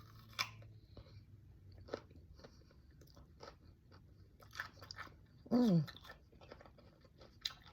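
A crisp bite into a raw cucumber boat topped with crab and rice, then chewing with small wet crunches. A short falling voice sound comes a little past halfway.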